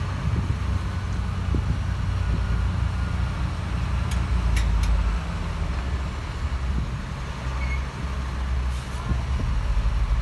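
Heavy diesel engine of earthmoving machinery running steadily at a low pitch, with a few sharp metallic clanks about four to five seconds in.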